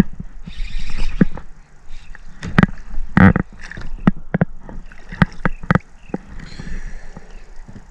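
Irregular hollow knocks and bumps on a kayak with short splashes of water, about a dozen sharp knocks with the loudest two near the middle.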